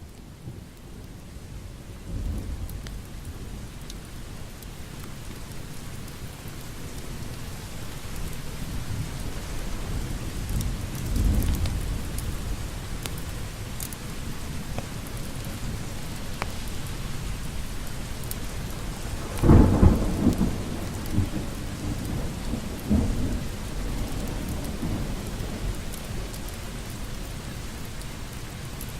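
Steady heavy rain with rolls of thunder: low rumbles a couple of seconds in and about a third of the way through, the loudest thunderclap about two-thirds through, and a smaller rumble shortly after.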